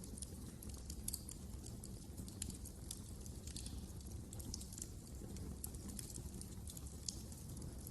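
Wood fire crackling: irregular small pops and snaps over a steady low rumble of the flames.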